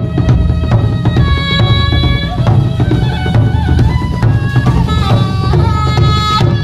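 Thai traditional music for a Nang Yai shadow-puppet performance: several held, wavering melodic lines over steady drumming.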